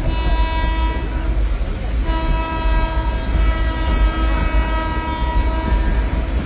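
Train horn sounding in two long steady blasts: one that cuts off a little over a second in, then another from about two seconds in lasting some three and a half seconds, over the continuous low rumble of a train.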